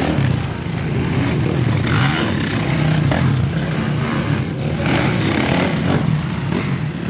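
Motorcycle engine running, its pitch wavering up and down.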